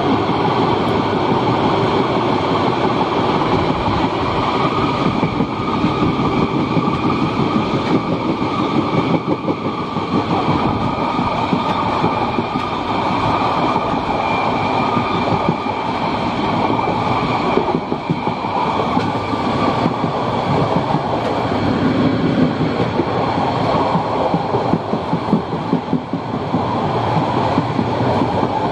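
A carriage of the Molli narrow-gauge steam railway running along, its wheels rolling and clattering on the track in a steady, continuous rumble.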